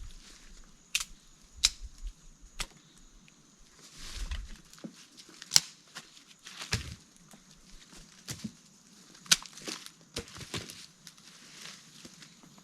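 Irregular sharp snaps and cracks of dry wood, a few a second at most and uneven in loudness, with the loudest crack about five and a half seconds in; a faint steady high-pitched hum runs underneath.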